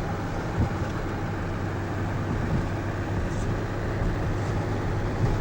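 Steady road and engine noise of a car driving along, with a low hum and a few faint knocks.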